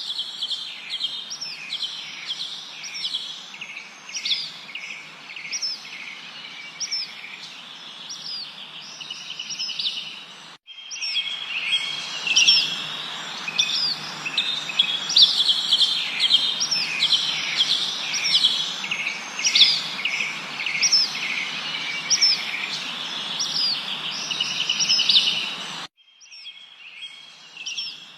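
A chorus of many songbirds chirping and trilling in quick overlapping calls over a steady hiss. The whole sound cuts off abruptly and restarts twice, about a third of the way in and near the end, like splices in a looped recording.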